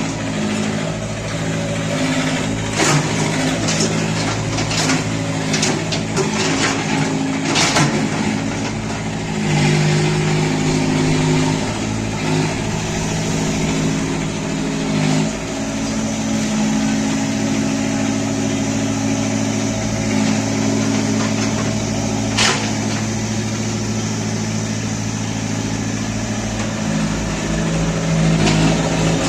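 Vehicle engine running steadily, its pitch stepping up and down a few times, with several sharp knocks or clanks over it.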